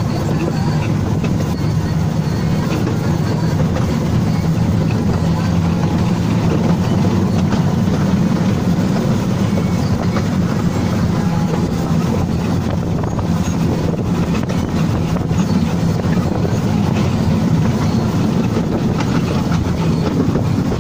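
Wulai little tourist train running along its narrow-gauge track: a steady, low rumble of wheels on rails, heard from inside the leading car.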